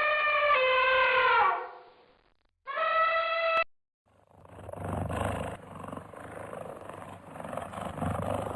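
Animal calls: a clear pitched cry that falls away about a second and a half in, a second short pitched cry, then a long rough, noisy call that rises and falls.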